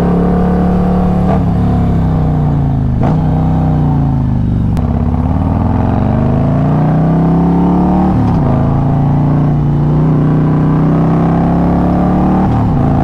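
Harley-Davidson Road Glide's Milwaukee-Eight V-twin engine running under way, its pitch dropping sharply at several gear changes and climbing again between them.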